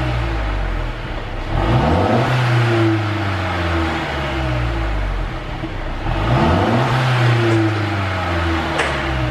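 Mercedes-Benz E200 Cabriolet's turbocharged four-cylinder revved twice, the revs rising quickly about a second and a half in and again about six seconds in, held briefly, then falling back. A short sharp crack from the pop-and-crackle exhaust tune comes near the end.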